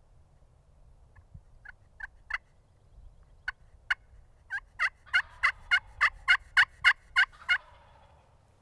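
Turkey yelping: a run of sharp two-note yelps. They start sparse and faint, then come about three a second and grow loud before stopping with about a second to go.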